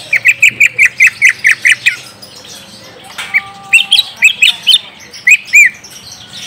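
Greater green leafbird (cucak ijo) calling: a fast run of about a dozen loud, sharp notes, about six a second. After a pause, a looser series of rising-and-falling notes follows.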